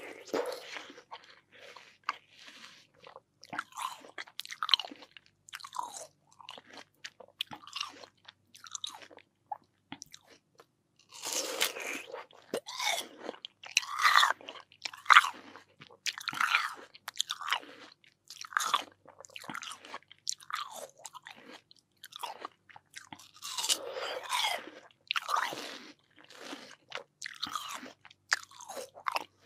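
Close-miked eating of watermelon: repeated wet, crunchy bites and chewing, coming in irregular clusters, heaviest in two spells midway and late on.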